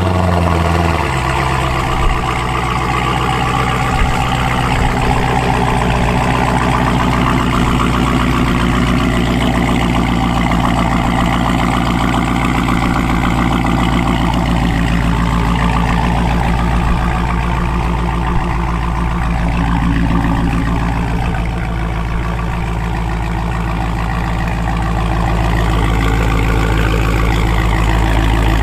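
Dodge Scat Pack's 392 HEMI V8 running at a steady idle, its pitch settling lower about a second in.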